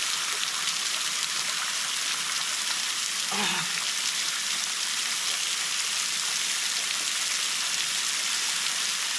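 Waterfall pouring steadily over a cliff into a rock pool: an even hiss of falling water, close enough to overpower the microphone.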